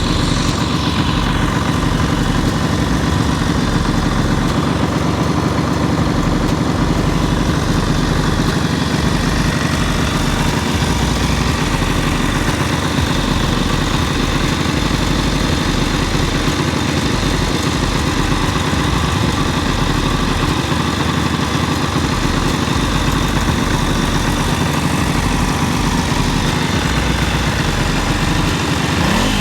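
Ducati Monster S2R 800's air-cooled two-valve desmo L-twin idling steadily, still cold and not yet at operating temperature. The engine carries extraneous mechanical noise that the owner puts down to a worn timing-belt bearing.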